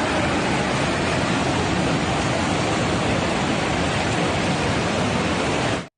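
Heavy rain pouring down: a steady, dense rushing hiss that cuts off abruptly near the end.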